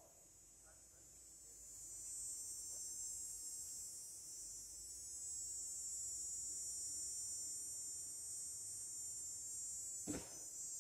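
A steady, high-pitched insect chorus that swells up about two seconds in, with a single thump near the end.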